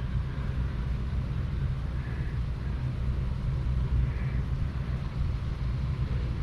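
Steady low motor rumble with a constant hum.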